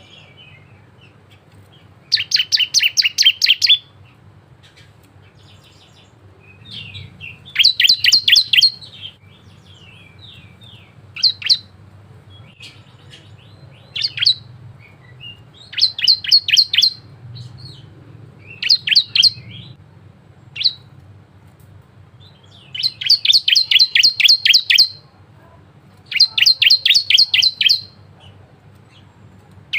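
Bar-winged prinia (ciblek) singing: repeated bursts of rapid, high chirping notes, each burst a second or two long, with brief single notes and short pauses between. A faint low hum runs beneath.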